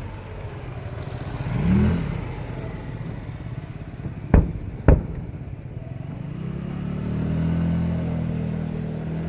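Two firework bursts, sharp booms about half a second apart near the middle, over a steady low rumble. A motor vehicle engine hums in the background, growing louder in the second half.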